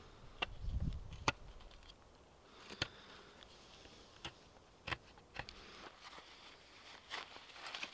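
A handful of sharp clicks and light knocks at uneven intervals, with a brief dull thump about a second in, over a quiet background.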